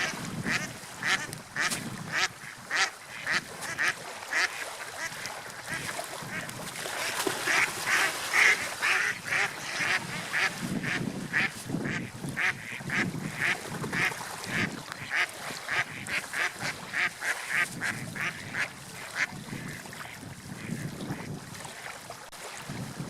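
A long run of short, quack-like animal calls, about two a second, sometimes overlapping and loudest about eight seconds in, over a low rumbling background.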